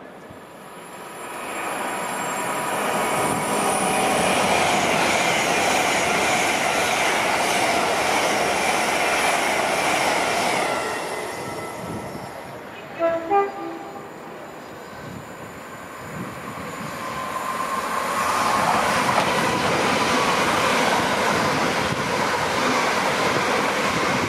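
Trains running through a station at speed, two passes one after the other, with wheel and rail noise building and fading. In the lull between them, a short double blast of a train horn.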